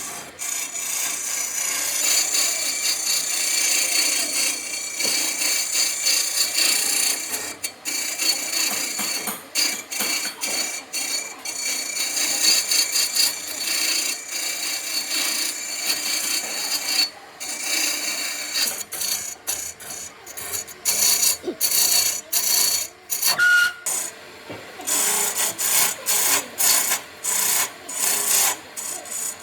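Wood being scraped with an abrasive hand tool, a rasping noise in continuous strokes that break into short separate strokes about twice a second near the end.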